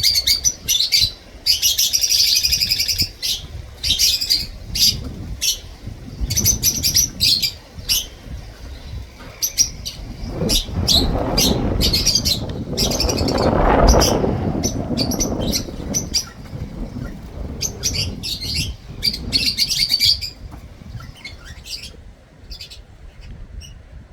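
Fischer's and black-masked lovebirds chattering in a flock, a run of shrill, rapid chirps that comes and goes in clusters. A low rumbling noise swells in the middle and is loudest about 14 seconds in.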